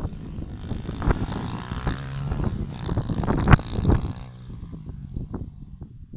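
Small motocross or pit bike engine running with a wavering pitch, then fading away about four seconds in, with several sharp knocks over it.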